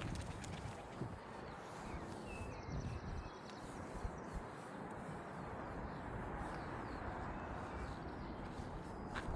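Outdoor canal-side ambience: a steady noisy haze with a few faint bird chirps about two to three seconds in, and low footstep thumps in the first second.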